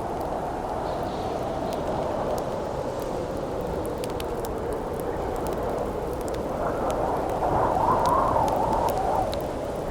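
Howling wind blowing steadily, with a gust that swells and rises in pitch about two-thirds of the way through, over the scattered pops and crackles of a campfire.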